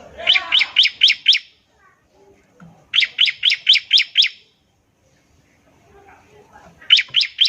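Bar-winged prinia (ciblek) calling in rapid 'nembak' bursts: two runs of five or six sharp chirps at about four a second, with a third run starting near the end.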